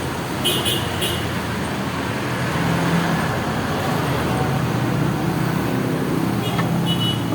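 Steady background road-traffic noise, a continuous rumble and hiss of passing vehicles with no single event standing out.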